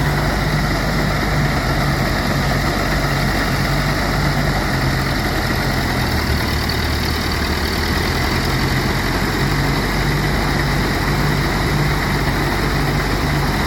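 Engine-driven rice threshing machine running steadily, its motor humming evenly under a constant rushing noise from the threshing drum.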